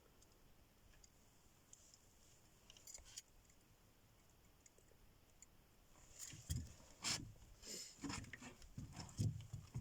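Faint, irregular clicks and soft knocks of handling noise that start about six seconds in, after a near-silent stretch.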